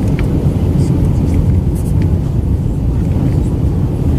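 Steady low rumble inside the cabin of an Airbus A319-112: its CFM56 engines and the airflow over the fuselage, heard from a window seat.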